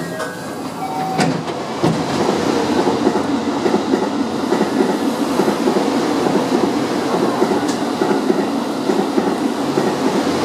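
Loud, steady running noise of a train, with wheels clattering over the rails, heard from inside a commuter train car.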